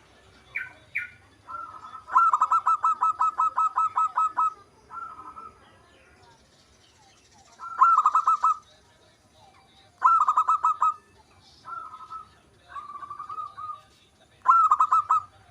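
Zebra dove (perkutut) cooing: a run of rapid, evenly pulsed notes, about five or six a second, delivered in repeated phrases. The first and longest phrase lasts about two and a half seconds, followed by several shorter bursts.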